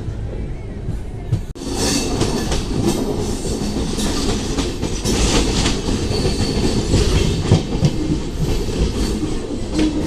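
Express passenger train running at speed: the steady rumble and clatter of coach wheels over the rail joints. There is a brief sharp drop about one and a half seconds in, after which the sound is louder.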